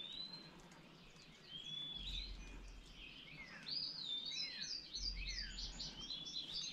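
Songbirds singing: clear whistled slurs and quick down-slurred chirps, coming in clusters, busiest from about four seconds in.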